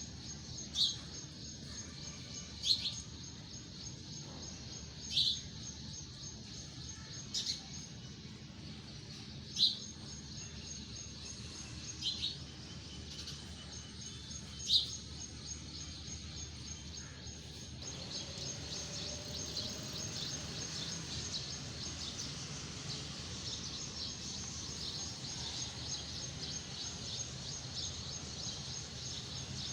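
Outdoor nature ambience: a bird gives a short high chirp about every two and a half seconds over a steady high-pitched trill. About 18 seconds in, the chirps give way to a denser, continuous high chirring that is a little louder.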